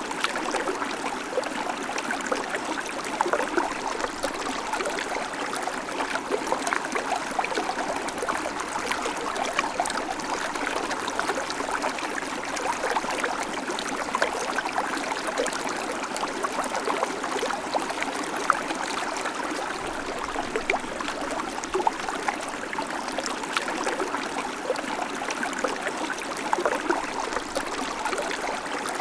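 Babbling creek: water running and trickling over stones, a steady rush full of small splashes and gurgles.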